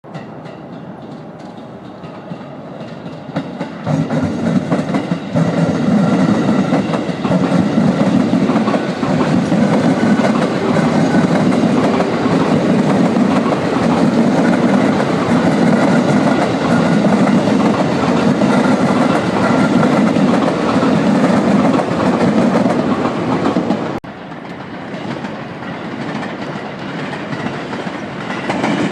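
A train passing close by on the rails: wheels on track building up over a few seconds into a loud, steady rumble with a clickety-clack rhythm, then dropping off suddenly near the end.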